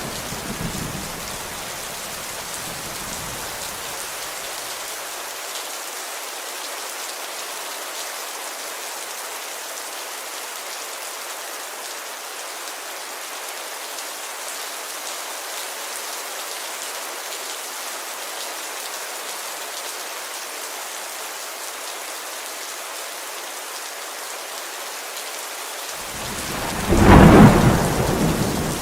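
Steady rain falling on a window, with a fading roll of thunder in the first few seconds. Near the end a sudden loud thunderclap breaks in and rumbles away.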